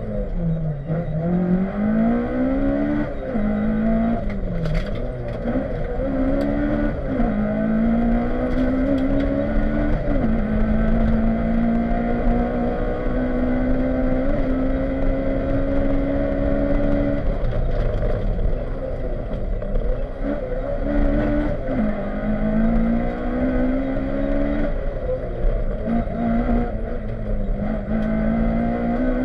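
Honda Civic rally car's four-cylinder engine, heard from inside the cabin, revving hard through the gears: the pitch climbs and drops back with each gear change, holds steady for several seconds mid-way, then falls and climbs again near the end. Road and tyre noise runs under it, with a few sharp knocks a few seconds in.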